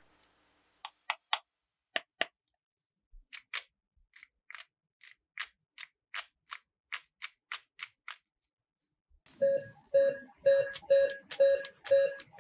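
Sharp plastic clicks, at first scattered, then an even run of about three a second, from a toy doctor kit being handled and worked. About nine seconds in, an electronic toy starts beeping, a short beep about twice a second.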